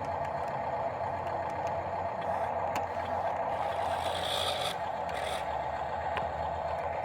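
Heavy work vehicle's engine running steadily, with a hiss that comes in for about a second near the middle and again briefly just after.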